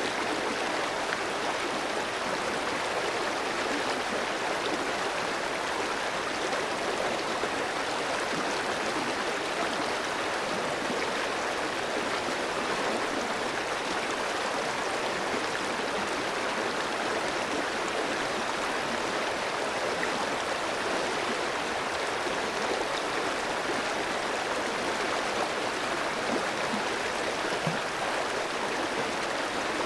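Clear stream flowing over rocks: a steady, even rush of water.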